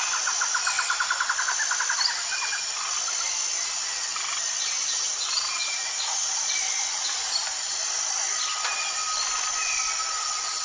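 Birds calling over a steady high insect drone. A fast trill sounds over the first two seconds, short chirps are scattered through the middle, and a long steady whistle-like note is held near the end.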